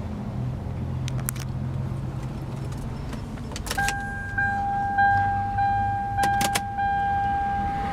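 A Lexus ES300's 3.0-litre V6 idling with a low steady hum, with a few sharp clicks. About halfway through, a steady high electronic warning tone from the car starts and keeps going, dipping briefly at even intervals.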